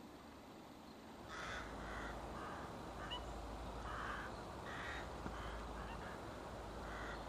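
A flock of birds calling, a string of short repeated calls starting about a second in, over a steady outdoor background hiss.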